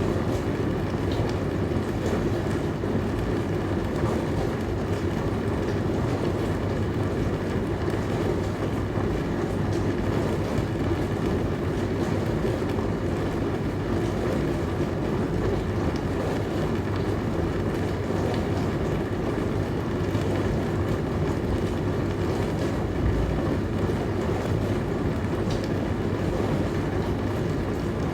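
Dishwasher running mid-cycle: a steady churning wash of water spray and pump with a low hum, unchanging throughout, with a few faint ticks.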